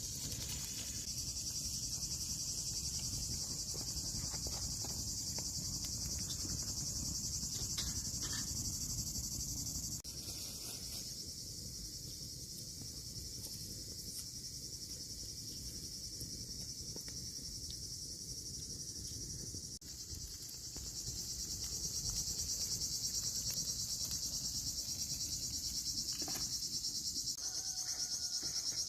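Insects chirring in a steady high-pitched chorus, over a low rumbling background noise. The chorus drops quieter about a third of the way in and comes back louder past the middle.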